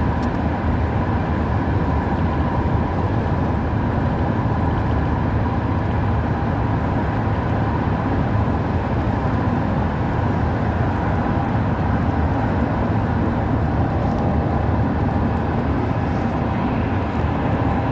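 A car driving at a steady pace: continuous road and engine noise, with a faint steady hum above it.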